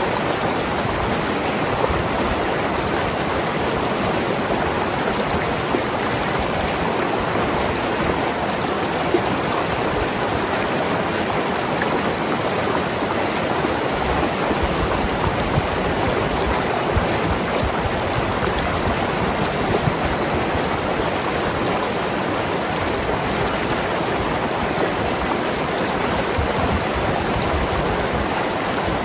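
Mountain river flowing over rocks: a steady rushing, gurgling water sound with small splashes here and there.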